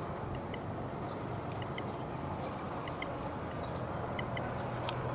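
Outdoor ambience by open water: a steady low rumble with short, high bird chirps scattered through it, several each second.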